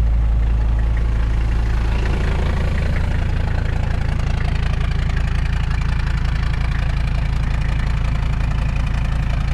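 Mercedes OM617 five-cylinder diesel idling steadily just after a cold start at about 25°F; its note changes slightly about two seconds in.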